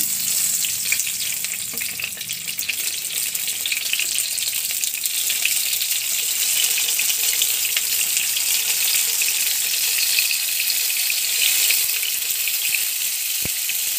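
Masala-stuffed small brinjals frying in hot oil in a pan: a steady sizzle with fine crackling.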